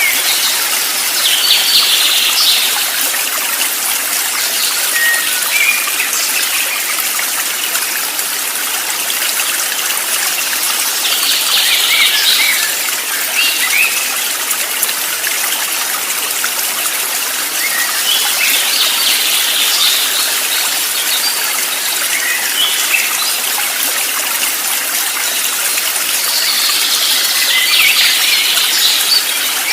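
Steady rushing of running water, with wild birds chirping in four short bouts spread through it.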